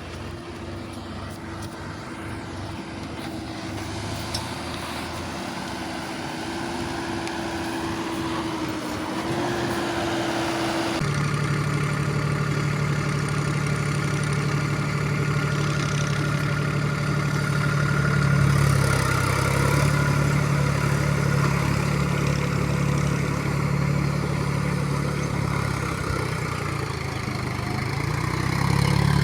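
Heavy diesel engine running steadily. About eleven seconds in, its note changes suddenly to a deeper, stronger drone that grows gradually louder.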